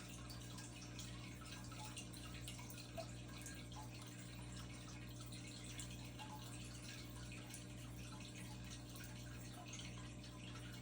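Faint water trickling and dripping into a sump pit from a pipe as the pit refills, over a steady low hum.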